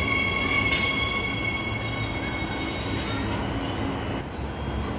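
Transperth electric multiple-unit train slowing to a stop at the platform, echoing under the station roof: a high, steady whine fades out within the first second and a half, with a short hiss about 0.7 s in, leaving the low rumble of the train as it comes to rest.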